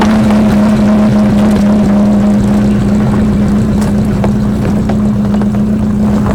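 Chevrolet Chevette's engine running at steady revs while driving, a loud, even drone over low road rumble.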